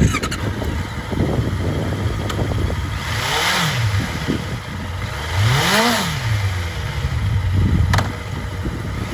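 2014 Honda CBR650F's inline four-cylinder engine idling, revved twice, the second rev higher than the first, with a sharp click near the end.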